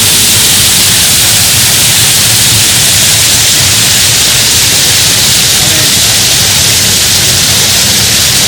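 Waterfall: a loud, steady rush of falling water close by, heavy in the hiss, unchanging throughout.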